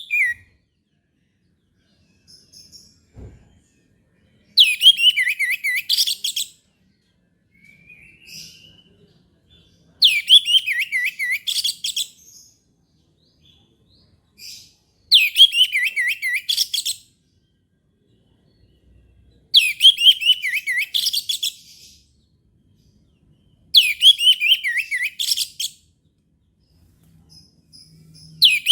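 Orange-headed thrush (anis merah) singing: loud phrases about two seconds long, every four to five seconds, each opening with a falling whistled slur and running into a rapid warble, with faint short notes between phrases.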